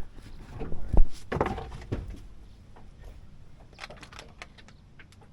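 Handling noise on a fishing boat: a sharp thump about a second in, then about a second of rustling, then scattered light clicks and taps.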